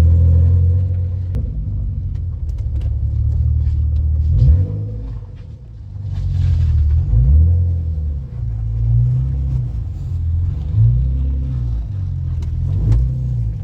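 BMW E46 328i's straight-six engine under way, its note rising and falling several times as it is revved up and eased off, with a brief drop in loudness about five seconds in.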